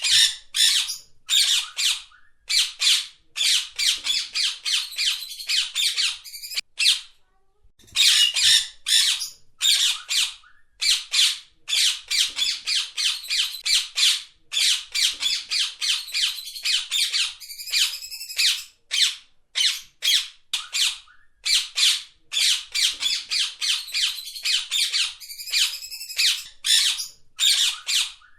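Rose-ringed parakeet squawking: a fast run of short, harsh, high-pitched calls, several a second, with a brief pause about seven seconds in. A few calls in the second half are clearer and more whistled.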